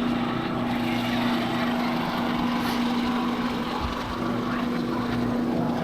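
An engine running steadily at an even pitch, a constant low drone with no revving.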